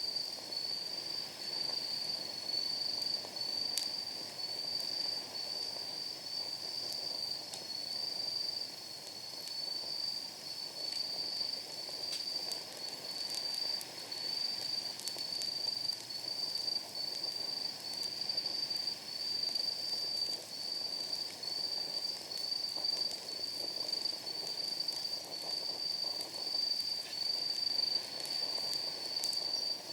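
Wood crackling in a steel fire pit, with scattered sharp pops and a soft hiss of flame, under a steady pulsing high-pitched chirping of night insects, which is the loudest sound throughout.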